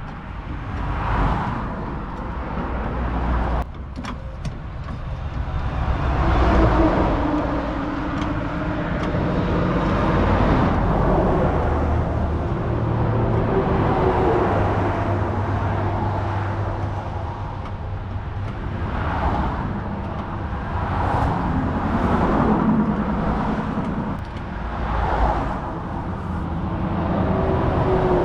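Road traffic passing at the roadside, vehicles swelling and fading every few seconds over a steady engine hum.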